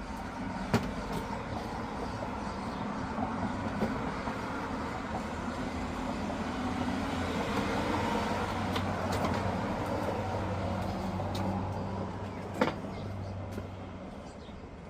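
An engine running steadily with a low hum that swells and then eases off, with a sharp click about a second in and another near the end.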